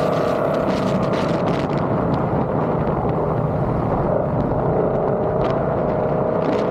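Ford Coyote 5.0 V8 with Kooks headers running steadily under load, a constant exhaust drone. Its pitch sags a little and rises again toward the end.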